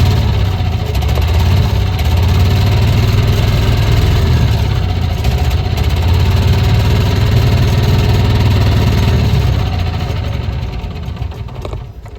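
Gas golf cart engine running steadily just after starting, now that it has an aluminum intake adapter fitted; it fires up easily where before it only cranked. The sound fades away over the last two or three seconds.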